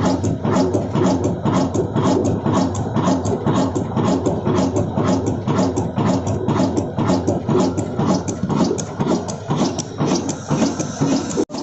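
Old black desi diesel engine running steadily, its exhaust beating about three to four times a second, with a brief dropout near the end.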